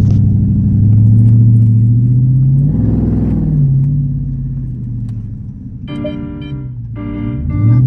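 Dodge Scat Pack's 392 HEMI V8 running with a loud exhaust, revving up about three seconds in and settling back, then climbing again near the end.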